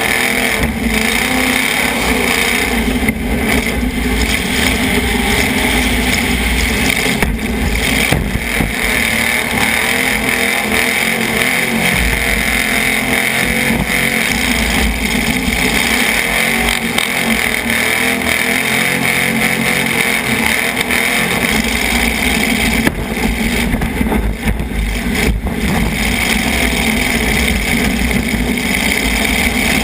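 Demolition derby car engines running loudly, revving up and down as the cars drive and manoeuvre.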